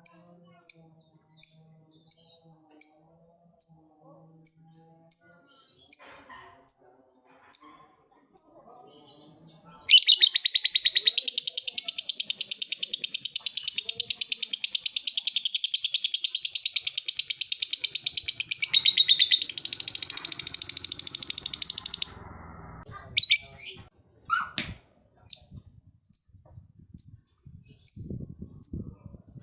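Lovebird ngekek call: sharp high chirps repeating about once every two-thirds of a second. About ten seconds in they break into one long, rapid, unbroken chattering trill lasting about twelve seconds. It then drops back into separate chirps.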